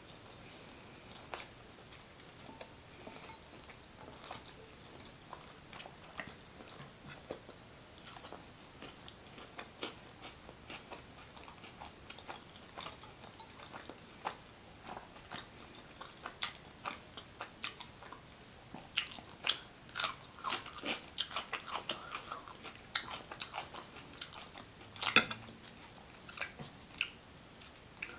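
Close-miked chewing and wet mouth sounds of a person eating. From about halfway, bites of raw cucumber give a run of sharp crunches, thickest and loudest in the last third.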